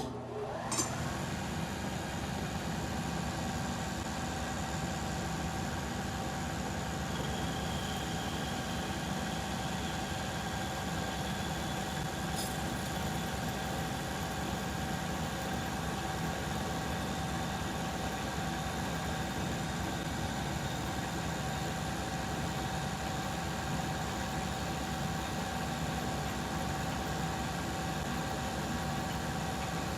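Metal lathe starting with a clunk and then running steadily under a deep turning cut of about fifty thousandths, a constant machine hum with a steady high whine.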